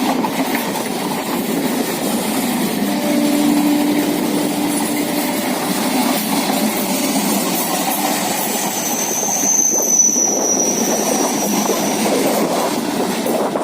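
Indian Railways EMU (electric multiple-unit) passenger train passing close by: a steady loud rumble of wheels on the track, with a thin high wheel squeal for a few seconds past the middle.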